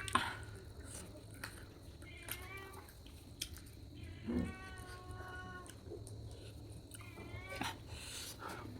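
An animal calling three times with short pitched cries, the middle one longest, among scattered light clicks.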